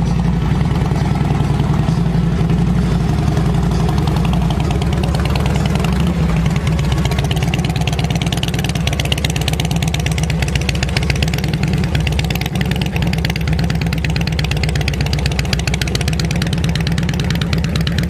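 A vehicle engine running close by, loud and steady, with a fast, even pulsing beat.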